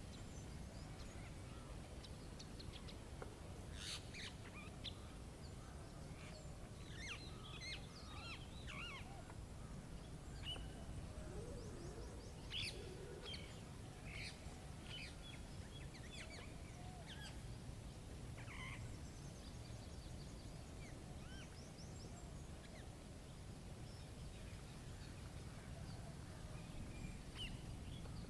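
Faint nature ambience: songbirds chirping in short, scattered calls, busiest in the middle of the stretch, over a steady low background rumble.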